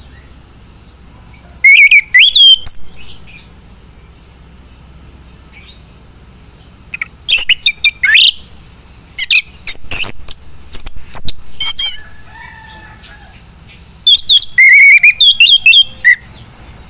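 Male chestnut-capped thrush (anis kembang) singing in loud, rapid spells of gliding whistles and chattering trills. There are four bursts of song, each one to three seconds long, with short pauses between them.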